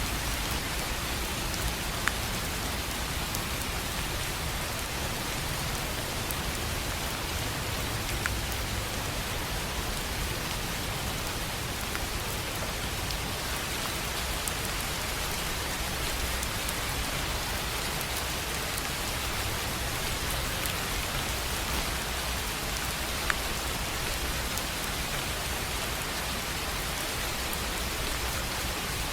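Steady rain on a tin roof: an even hiss with a few sharper single drop ticks standing out, about two, eight and twenty-three seconds in.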